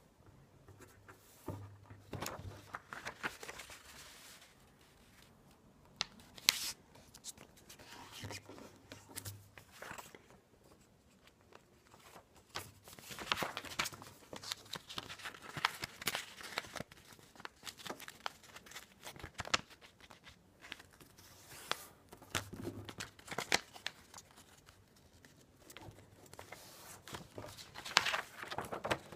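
A sheet of paper being handled and folded: irregular rustling and crinkling, with short sharp swipes as folds are creased.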